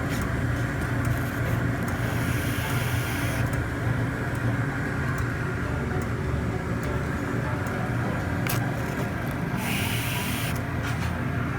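Battery-powered Trackmaster toy train motors running with a steady whirring hum. Two short hisses come in, about two seconds in and again near the end, with a sharp click shortly before the second.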